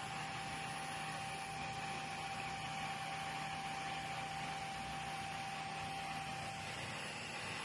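A small fan running steadily as the load on a power supply card under test, an even whirring hiss over a low mains-type hum. A thin steady high whine sounds along with it and stops about seven seconds in.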